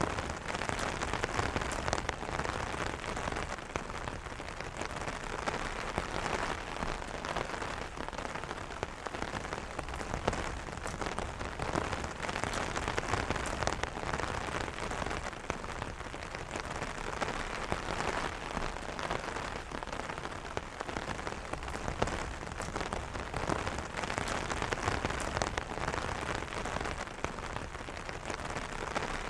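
Steady rain pattering on a fabric umbrella, a dense mix of many small drop taps over a continuous hiss.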